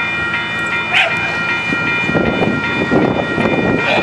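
Union Pacific No. 844 steam train's passenger cars rolling past: a rumble and clatter of wheels on the rails builds up about two seconds in, under a steady high ringing tone.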